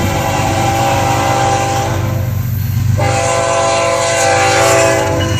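Lead GE GEVO diesel locomotive's air horn sounding two long blasts with a break of under a second about halfway, over the steady rumble of the passing train.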